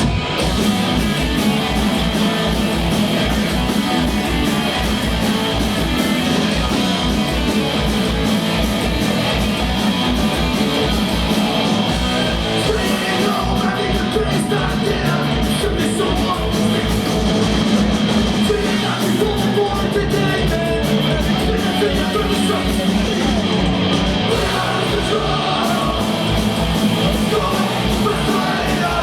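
A punk band playing live and loud: distorted electric guitars and bass over a fast, driving kick-drum beat, with shouted vocals.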